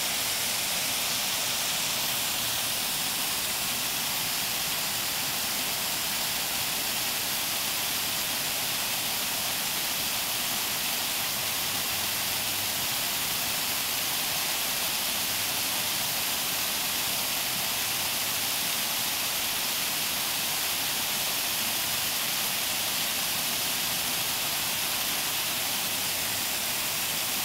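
Waterfall's falling water rushing steadily, an even, unbroken hiss heaviest in the high range.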